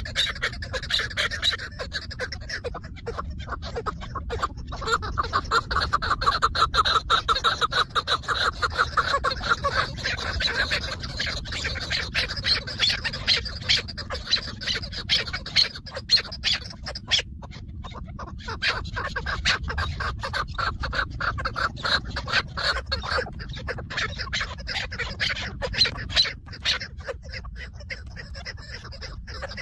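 Chukar partridges calling: rapid, repeated clucking notes in long runs, with a couple of short lulls.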